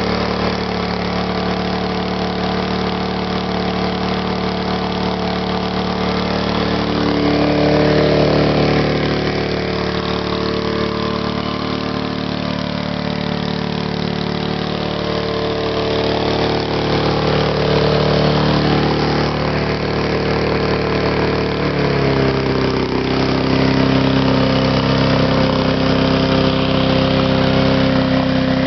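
Briggs & Stratton engine on a vintage Cooper lawn mower running steadily after a cold start. Its speed swells briefly about eight seconds in, and the note shifts and gets a little louder about twenty-two seconds in.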